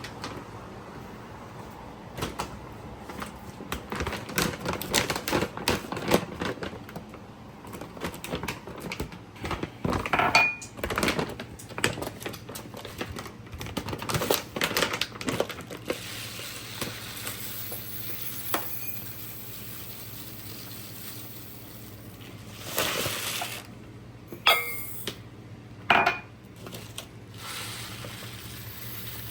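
Kitchen utensils and cookware clinking and knocking against pots and dishes. The clinks come thick and fast for the first half, then thin out to a short scraping rush and a few sharp knocks later. A steady low hum runs underneath.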